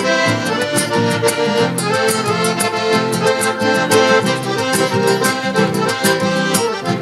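Accordion-led instrumental introduction of a gaúcho (southern Brazilian fandango-style) song, with the accordion playing the melody over a steady beat.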